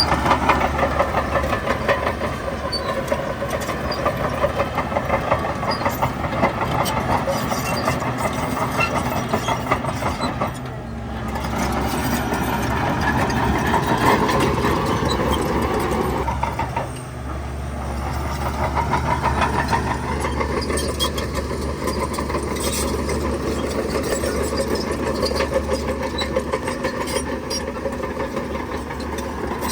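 Heavy diesel earthmoving machinery running continuously under load, its engine note shifting about ten seconds in and again about seventeen seconds in.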